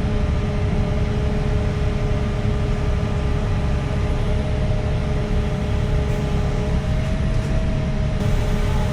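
Excavator diesel engine running steadily under work, a deep continuous rumble with a faint steady whine above it.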